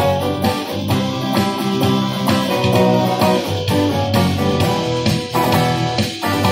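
Guitar music: an instrumental passage of a rock song, guitar strummed in a steady rhythm with a low bass line under it.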